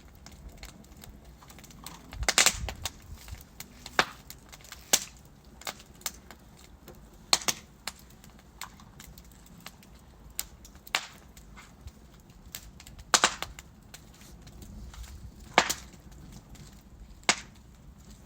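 Burning logs in a fireplace crackling: scattered sharp pops and snaps at irregular intervals, a handful of them much louder, over a faint low rumble of the flames.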